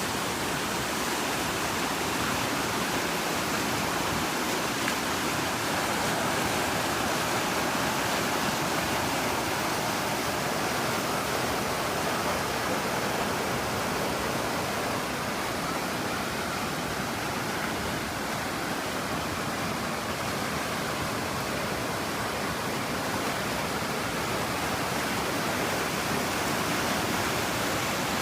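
Heavy rain pouring down in a storm: a steady, even hiss of rainfall.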